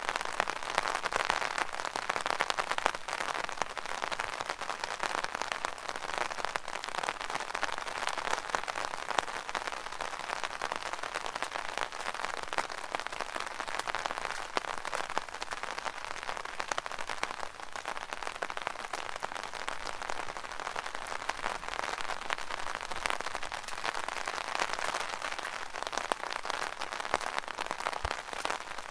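Rain falling on an umbrella canopy: a steady, dense patter of countless small drop hits.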